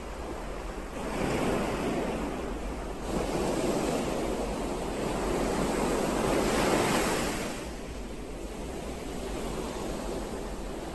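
Ocean waves washing in: a surge of surf about a second in, then a second, longer and louder surge that falls away near the eight-second mark, leaving a softer wash.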